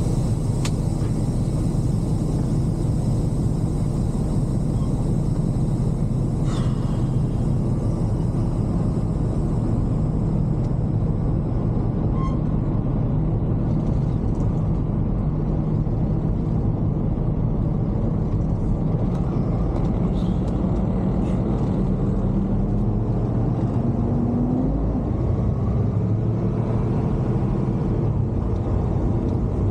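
Semi-truck diesel engine running with a steady low rumble as the truck drives; its note climbs briefly about two-thirds of the way in.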